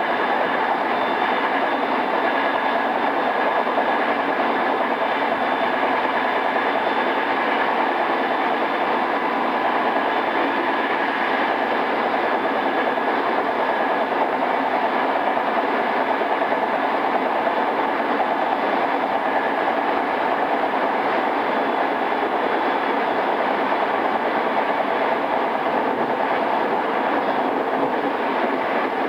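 JR East E217 series commuter train running steadily at speed, heard from inside motor car MoHa E217-2006: an even rumble of wheels and track, with faint steady tones over it. The sound is dulled at the top, as from a cassette-tape recording.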